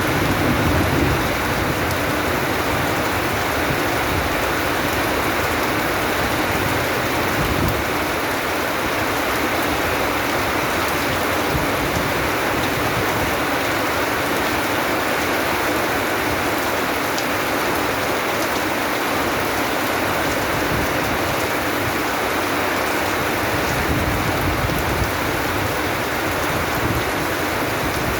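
Steady rain falling, an even dense hiss, with a low rumble swelling in the first second.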